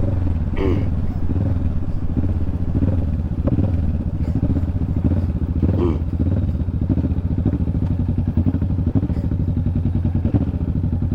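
Motorcycle engine running at low, steady revs: a deep, even drone picked up close by a camera mounted on the bike.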